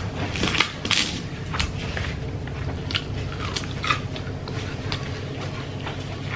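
Chewing and eating fried chicken by hand, close to the microphone: scattered small crunches and mouth clicks over a low steady hum.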